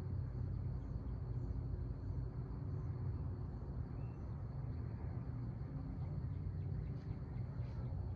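Outdoor ambience: a steady low rumble with a thin, continuous high insect trill over it and faint high chirps. A few soft ticks come near the end.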